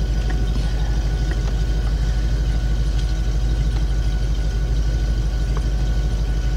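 Ford 5.4 V8 of a 2004 Lincoln Navigator idling steadily, running rough with a cylinder misfire, with a few faint ticks over it.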